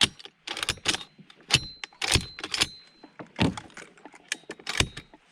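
A string of about a dozen irregular, sharp clicks and knocks of gear being handled in the kayak.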